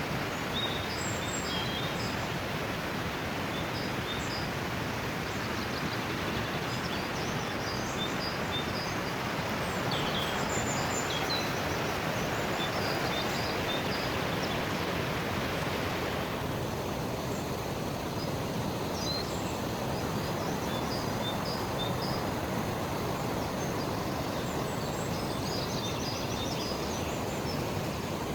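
Birds chirping and calling over a steady outdoor background noise; about sixteen seconds in, the higher part of the noise falls away while the chirping carries on.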